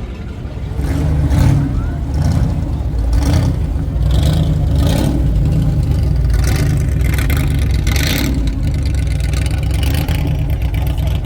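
Car engine running with a deep, steady rumble that swells about a second in, as if revving or pulling away.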